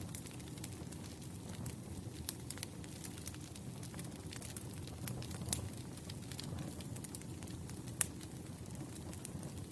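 Wood fire burning, with a steady low rumble under frequent irregular crackles and pops, a few sharper pops standing out, the loudest about eight seconds in.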